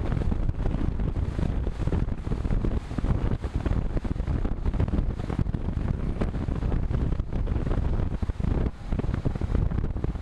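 Wind buffeting the microphone of a camera on a moving road bike: a steady, fluttering rumble of rushing air.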